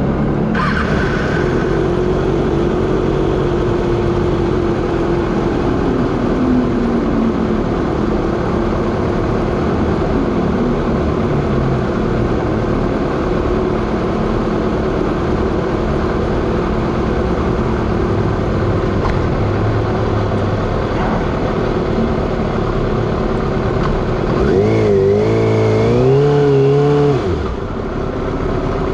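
Kawasaki ZX6R inline-four sport bike engine running at speed on a race track, with heavy wind rush over it. About 24 seconds in the engine revs climb and drop sharply several times.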